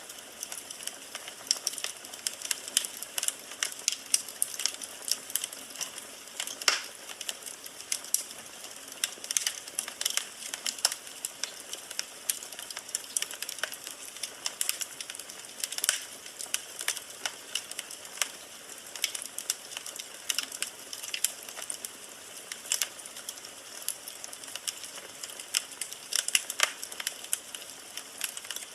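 Firewood burning in a fireplace, crackling steadily with many small irregular pops and snaps over a soft hiss of flame, and a few louder single snaps.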